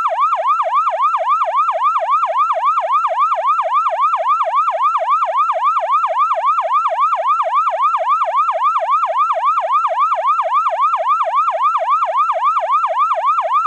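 Electronic emergency siren in a fast yelp, a clean tone sweeping up and down about four times a second without a break.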